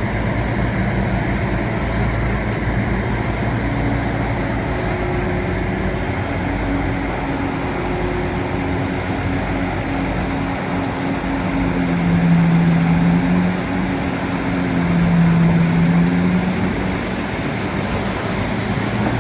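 Bulldozer's diesel engine running continuously. Twice, around two-thirds of the way through, its note grows louder and deeper for a second or two.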